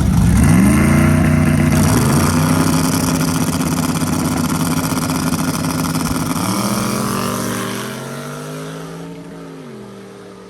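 Car engine at full throttle, its pitch climbing with gear changes about 2 seconds and 6.5 seconds in, then fading as the car pulls away down the strip.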